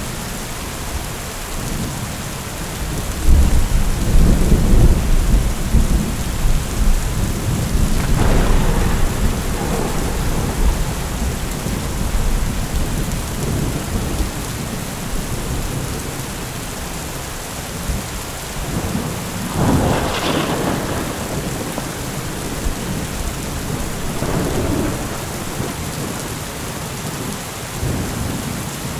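Heavy rain falling steadily through a thunderstorm. A long low roll of thunder starts about three seconds in and rumbles for several seconds, and further peals come about two-thirds of the way through.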